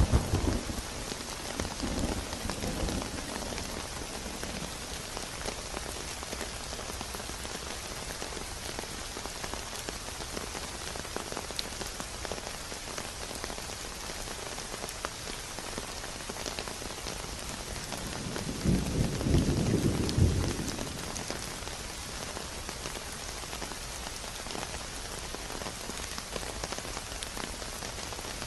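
Steady rain falling, a continuous even hiss of drops. Low rumbles sound over it in the first few seconds and again for about two seconds two-thirds of the way through.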